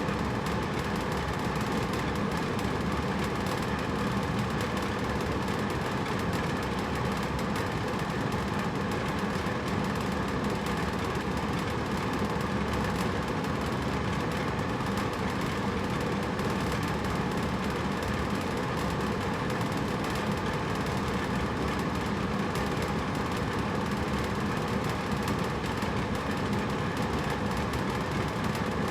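Hotel room air conditioner running steadily: an even rush of blown air with a low, constant hum.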